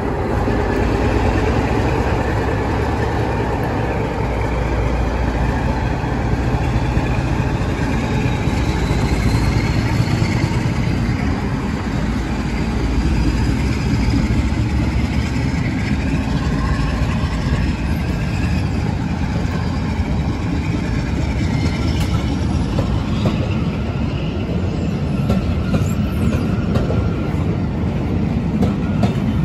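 Mainline diesel locomotive in West Coast Railways livery running slowly past a platform, followed by a rake of Pullman coaches rolling by with a steady rumble of wheels on rails.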